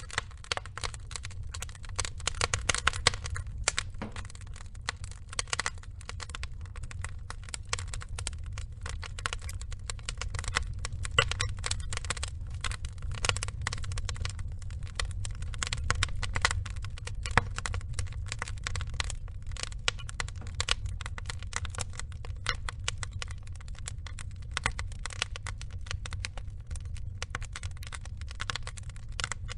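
Burning wood logs crackling and popping continuously, many small sharp snaps over a steady low rumble of the flames.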